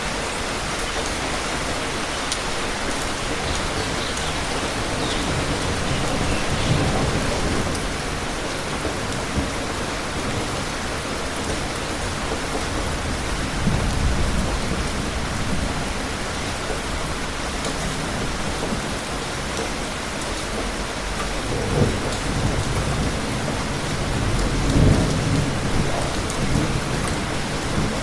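Steady rain falling, with low rolls of thunder rumbling up several times: about a quarter of the way in, at the middle, and twice more toward the end.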